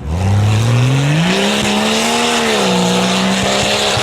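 A 4x4 tuff truck's engine revs up hard in the first second or so, then holds at high revs with a small dip and recovery, as the truck drives under full throttle.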